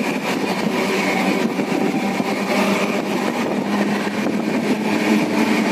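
Indian Railways express train running at speed, heard from inside a coach: the steady, loud running noise of the wheels on the track.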